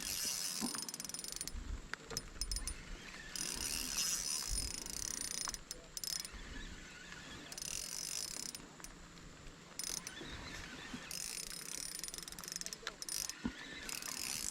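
Small spinning fishing reel being cranked in several short spells, a fine rapid mechanical ticking from the reel's gears.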